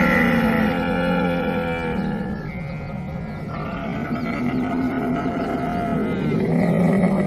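Camel bellowing: one long, continuous, low call that shifts pitch several times.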